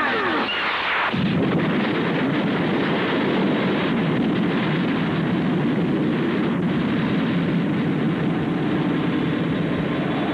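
A falling whistling sound effect that cuts off about a second in, followed by a dense, steady rumbling noise.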